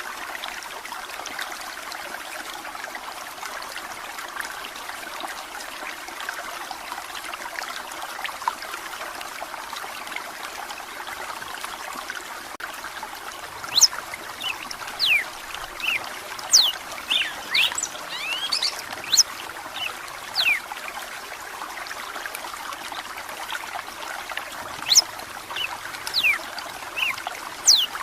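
Steady trickling of running water. About halfway in, a red-cowled cardinal starts singing: a run of loud, quick whistled notes sweeping up and down, a short pause, then another run near the end.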